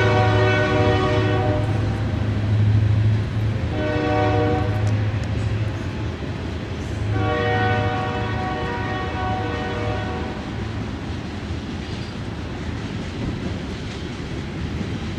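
Diesel freight locomotive's air horn sounding the end of a grade-crossing signal: a long blast that ends about a second and a half in, a short blast around four seconds, then a long blast of about three seconds. A steady low engine rumble runs beneath, with the train passing.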